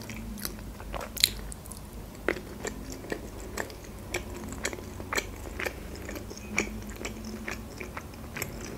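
Close-miked chewing of soft boiled pelmeni: scattered wet mouth clicks and smacks, the sharpest about a second in.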